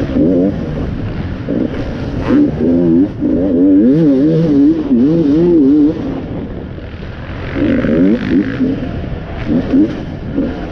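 Enduro dirt bike engine revving hard and falling back over and over as the throttle is worked, its pitch wobbling up and down about twice a second. It eases to lower revs just past the middle, then picks up again.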